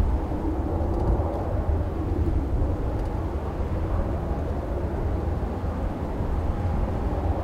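Strong gusty wind rumbling on the microphone, with a steady, distant jet aircraft noise underneath.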